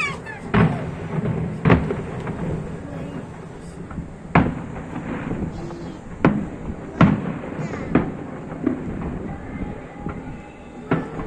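Aerial fireworks display: shells bursting in the sky, about six sharp bangs at uneven intervals of one to two seconds, each with a short echo. Crowd voices run underneath.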